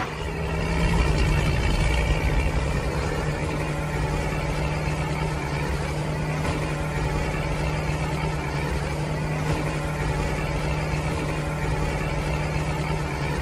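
Toy tractor's engine sound effect: a steady diesel-like drone at one even pitch, running without a break.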